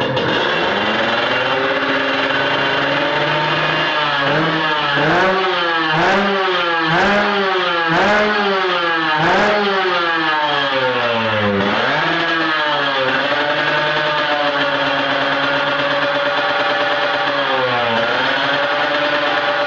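Two-stroke Kawasaki Ninja drag bike engine through an open racing exhaust, loud. About four seconds in it is blipped hard, about once a second, eight or so times. It then settles to a steady idle, with one more rev near the end.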